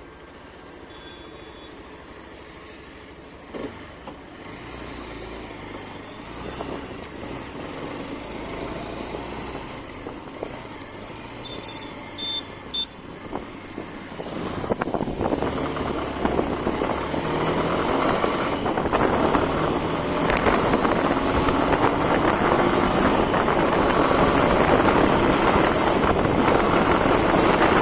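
Hero Xtreme 160R motorcycle being ridden: its single-cylinder engine running with road and wind noise, fairly quiet at first and growing much louder about halfway through. A few short high beeps come a little before the change.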